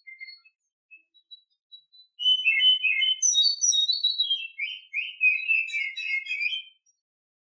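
Female oriental magpie-robin singing: a few thin, scattered notes, then from about two seconds in a fast, varied phrase of whistles and chirps lasting some four and a half seconds.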